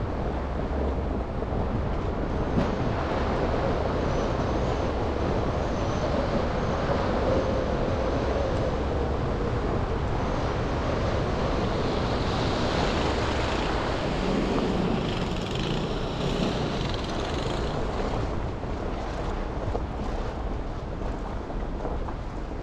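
Steady road and traffic noise of a car driving on city streets, with a noisy hiss; a higher hiss swells for a few seconds past the middle, then fades.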